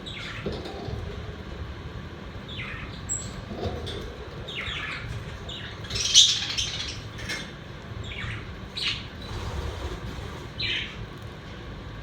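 Pet budgerigars chirping and squawking in short, scattered calls, with one louder squawk about six seconds in.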